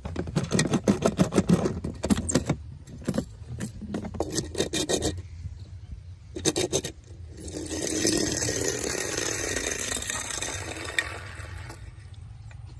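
Hard objects, likely plastic toys, being handled: quick rattling and scraping clicks, then a steady rushing scrape lasting about four seconds.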